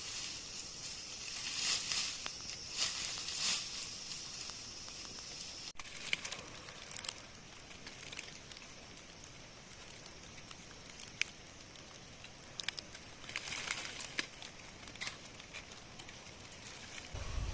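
Rustling and crackling in dry leaves and undergrowth, in irregular bursts with scattered sharp snaps; loudest in the first few seconds, breaking off abruptly, then fainter, with another bout of rustling near the end.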